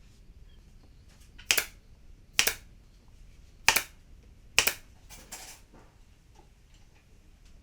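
Four sharp clicks or snaps about a second apart, each with a brief tail, followed by a fainter scraping sound.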